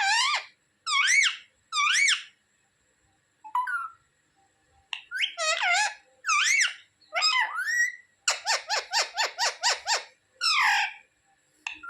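Pet parrot giving a series of shrill, pitch-bending calls, about eight of them, each roughly half a second long. Around eight seconds in, it gives a rapid run of about ten short notes lasting some two seconds.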